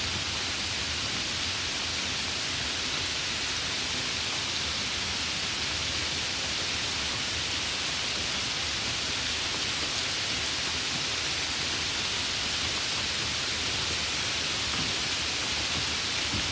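Light rain falling: a steady, even hiss with faint scattered drop ticks.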